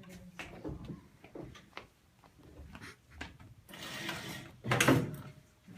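Irregular clicks and knocks, a rustling scrape about four seconds in, then a loud thud about a second before the end: handling and movement noise.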